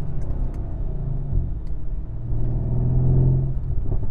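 Mercedes-AMG C63 S twin-turbo V8 running at road speed, heard from inside the cabin as a steady low drone with road noise. It eases off briefly about two seconds in, then comes back stronger.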